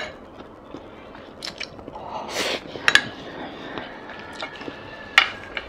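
Close-miked chewing and mouth sounds of someone eating soft braised basa fish fat with rice, with a few sharp clicks of wooden chopsticks against the pan.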